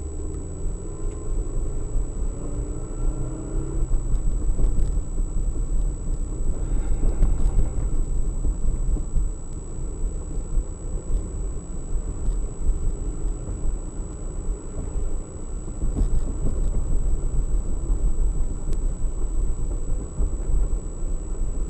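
Steady low rumble of a car's engine and road noise, picked up by a dashcam inside the moving car, with a faint constant high-pitched electronic whine.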